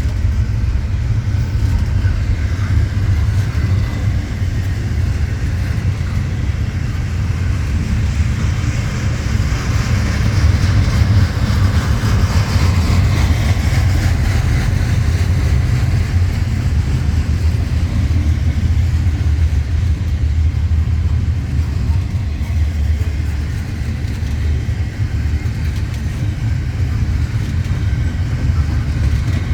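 Norfolk Southern intermodal freight train rolling past, a loud, steady low rumble of cars on the rails. A higher hissing noise swells and fades around the middle.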